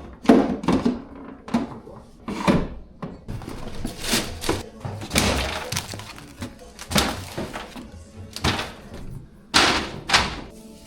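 Irregular knocks and clatters, about a dozen, of containers, shelves and food items being handled in a refrigerator as it is cleaned out, over background music.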